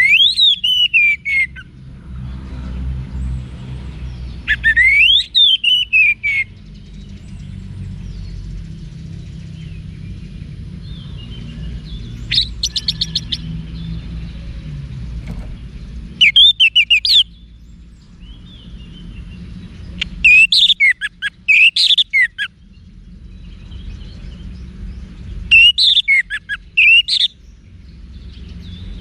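Orange-headed thrush singing: about six short whistled song phrases, some rising then falling in pitch, with pauses of a few seconds between them, over a steady low background rumble.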